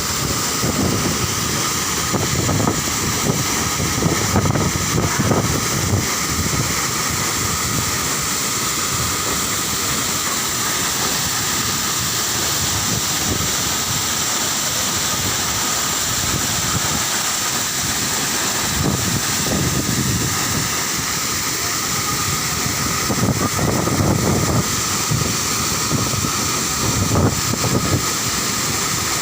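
A steady rushing roar with gusts of wind buffeting the microphone.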